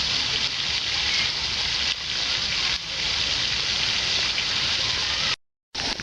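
Steady hiss of water noise, like rain falling on a surface. It cuts off abruptly near the end.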